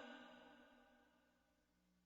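Near silence between verses of Quran recitation: the echoing tail of the reciter's last word fades out within about half a second.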